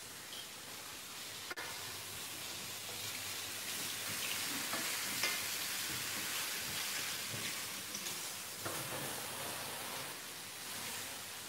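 Button mushrooms sizzling as they fry in a frying pan: a steady hiss that swells slightly midway, with a few light clicks.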